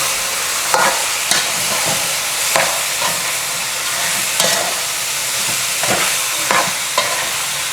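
Chicken back frying in hot oil in a pot with a steady sizzle, stirred with a utensil that scrapes the pot now and then, about seven strokes at uneven intervals.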